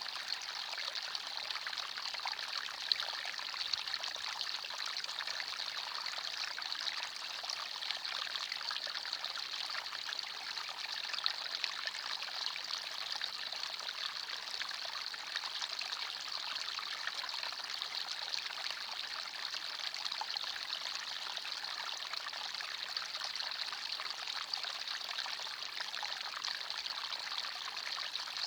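Small forest stream flowing and trickling over stones, a steady bright babbling with small splashes.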